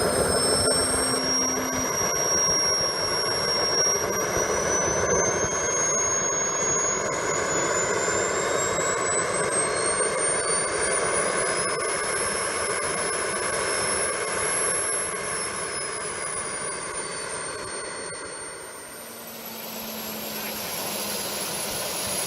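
JetCat SPT-10 RX model turboprop turbine running, a steady rush with a thin high whine that rises in pitch over about ten seconds, holds, then eases back down. Near the end the sound dips briefly and then picks up again.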